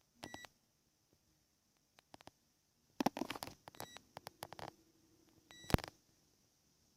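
DIY Eurorack 'Warp Engine' synth modules, sequenced by an 8-step sequencer, playing a sparse pattern of electronic clicks and short glitchy blips with silent gaps between them. The busiest clusters come about three seconds in and just before six seconds, the last ending in a sharp click.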